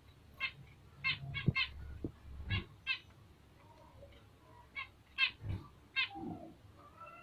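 Bengalese finches giving short, sharp chirping calls, a dozen or so irregularly spaced, with a few soft low knocks among them.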